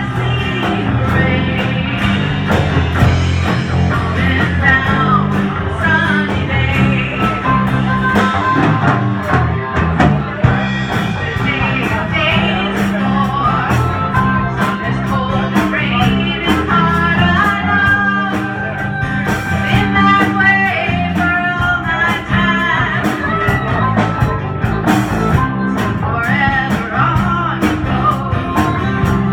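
Rock band playing, with guitar, bass and drums, and a voice singing.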